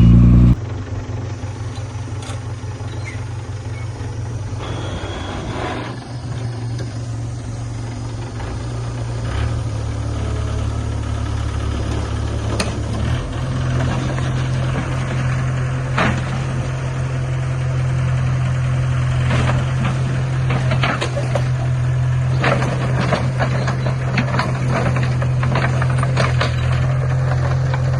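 Diesel engine of heavy earthmoving equipment running steadily. Its note steps up in pitch about 13 seconds in, with scattered clanks and rattles over it.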